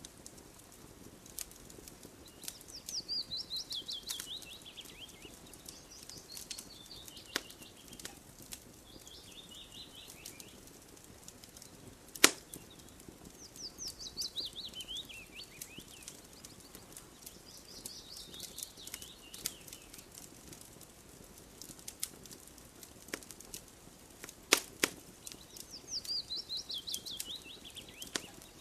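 Wood fire crackling, with sharp pops and a few louder snaps scattered through. A songbird repeats a fast descending trill every few seconds.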